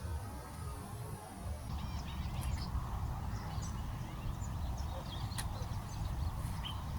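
Wind buffeting the microphone outdoors, with birds calling in short chirps from about two seconds in and a single sharp click a little past the middle.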